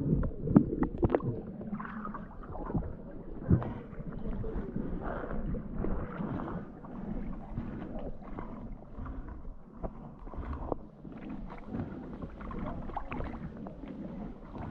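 Muffled water sloshing and rushing around a diver, with scattered dull knocks and clunks. The loudest knocks come near the start and a few seconds in.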